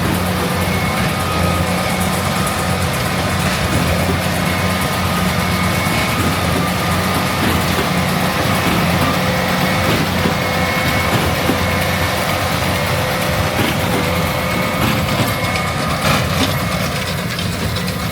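Heavy farm machinery running steadily: a continuous engine drone with a few steady higher tones held above it.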